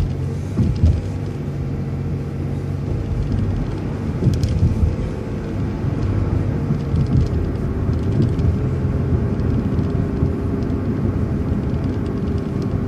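City transit bus driving along: a steady drone of engine and road noise with a faint, steady whine, heard from on board.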